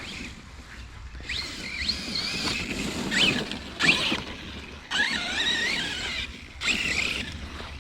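Arrma Kraton 6S RC truck's brushless motor whining up and down in about five short throttle bursts. Its tyres churn and splash through wet grass and mud.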